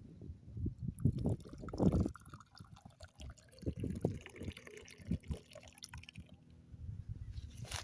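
A hot drink being poured into cups, with low bumps and knocks of handling.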